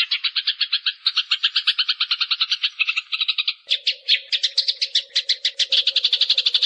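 Eurasian tree sparrow chirping in a fast, tight, unbroken run of about ten chirps a second. A little past halfway the chirps change character and a faint steady low hum joins underneath.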